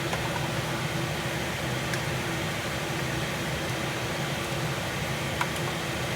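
Kitchen exhaust fan running with a loud, steady whirring hum, which the cook calls noisy. A couple of faint clicks come through it, about two seconds in and near the end.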